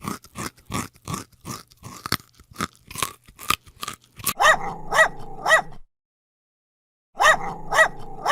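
An animal calling in two groups of three short, pitched calls, with a pause between the groups, after a run of rapid crunching sounds about three a second.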